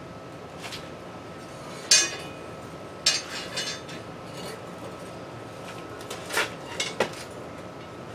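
Metal tools knocking and clinking against metal: a handful of sharp separate clanks, the loudest about two seconds in, another with a brief rattle after it a second later, and a cluster of three near the end.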